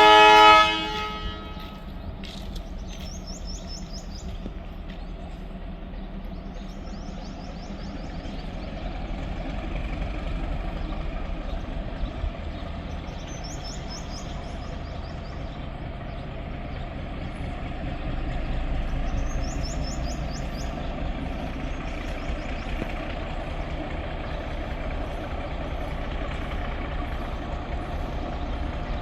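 Indian Railways locomotive horn sounding a chord that stops about a second in, followed by the steady low rumble of a train running, swelling and easing, with short high chirps every few seconds.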